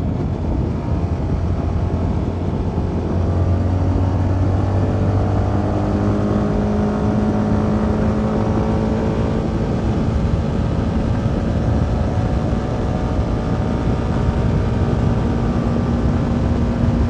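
CFMoto 300NK motorcycle's single-cylinder engine running under way, its pitch climbing slowly as the bike gathers speed, with a higher engine note taking over about six seconds in.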